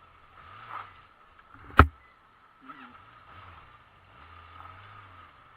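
Yamaha XJ600S Diversion's inline-four engine while riding, its pitch rising and falling a few times, with one sharp knock just under two seconds in.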